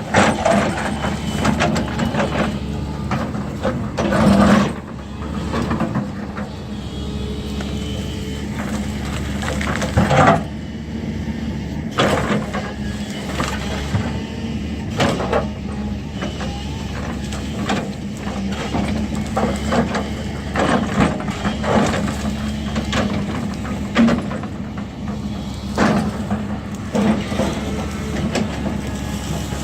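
Diesel engine of heavy earthmoving machinery running steadily under load, with repeated metallic clanks and knocks from the machine's working parts as it clears ground.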